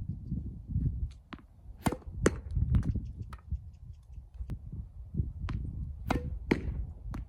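Tennis ball being struck with a racket and bouncing on the court: a series of sharp pops, the loudest coming in two close pairs about two seconds and six seconds in, over a low rumble.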